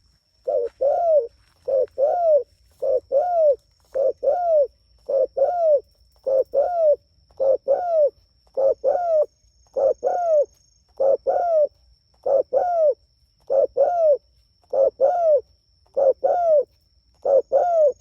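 Spotted dove (tekukur) cooing over and over, a short double coo repeated about once every 1.2 seconds with very even timing. A thin, steady high-pitched whine runs underneath.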